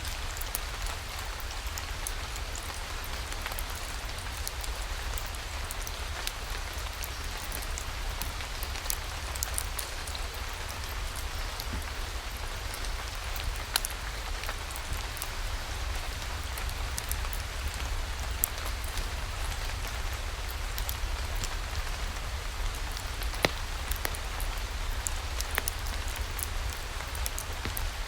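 Steady rain falling, with many scattered sharp ticks of drops and a steady low rumble underneath.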